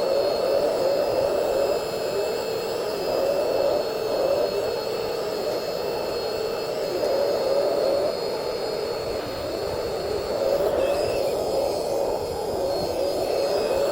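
Radio-controlled model excavators' electric hydraulic pumps whining steadily while digging, the pitch wavering slightly as the load changes.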